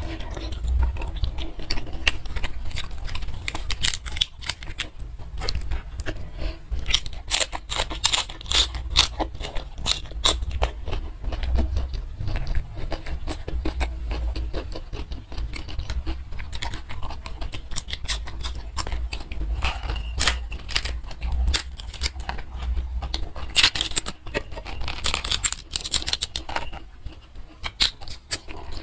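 Close-miked eating sounds: a person chewing and crunching mouthfuls of food taken by hand, a dense run of crisp crackles and clicks. Near the end a raw cabbage leaf is torn.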